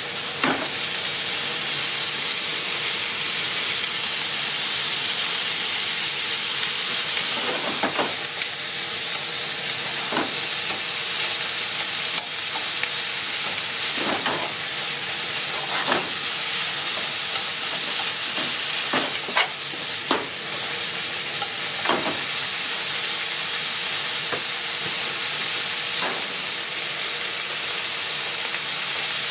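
Sliced onions and ham sizzling steadily in a nonstick frying pan as they are stir-fried. A wooden utensil knocks against the pan every few seconds.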